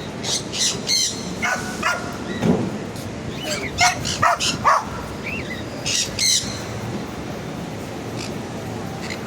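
Parrots giving short, harsh squawking calls again and again, most often in the middle of the stretch, over a steady background hum of street noise.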